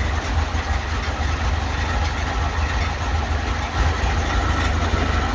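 Volkswagen Kombi engine idling steadily with the engine lid open, the rebuilt gearbox running without grinding. A faint rattle like a tin can vibrating sits under the idle.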